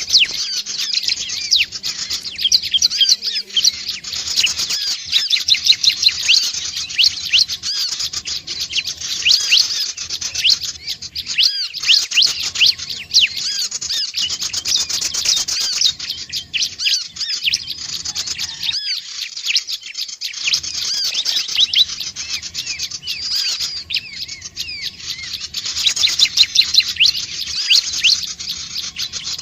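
Prinias (prenjak/ciblek) calling in a fast, unbroken chatter of high chirps, many overlapping.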